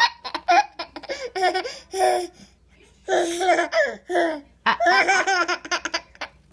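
A 38-week-old baby laughing in three bouts of choppy belly laughs, with short pauses between them.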